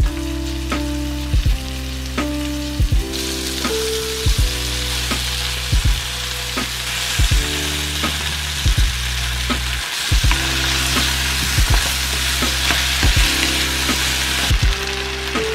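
Beef and chunks of potato, carrot and onion sizzling in butter in a frying pan as they are stir-fried. The sizzle swells about three seconds in and falls away near the end. Background music with bass notes and a drum beat about every second and a half plays under it.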